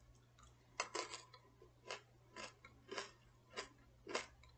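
Fried sesame anchovy snacks being chewed close to a microphone: a series of crisp crunches, about two a second, starting about a second in.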